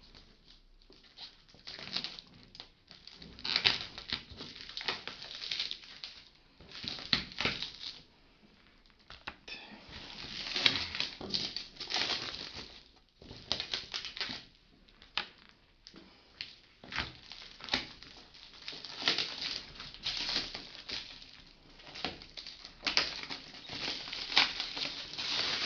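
Packaging handled by hand during unboxing: rustling and crinkling in irregular bursts, with sharp clicks and knocks.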